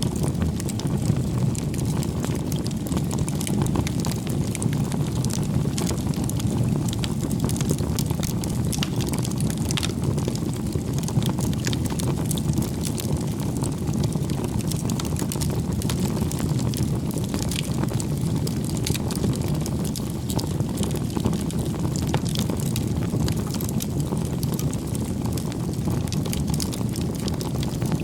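Wood fire burning: a steady low rumble of flames with frequent small, sharp crackles and pops.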